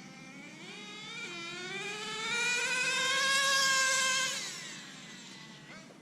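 Small nitro engine of an HPI RC car run flat out on a speed pass. Its pitch climbs, drops about a second in as the two-speed transmission shifts into second gear, then climbs again and fades out after about four seconds. The shift comes a little early.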